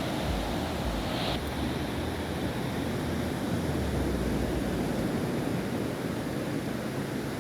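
Sea surf washing on a beach, a steady rush of waves, with wind buffeting the microphone as a low rumble. The higher hiss thins out about a second and a half in.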